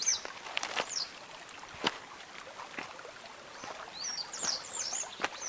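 Small bird chirping in short, high curved notes, near the start and again about four seconds in, over scattered sharp clicks and snaps.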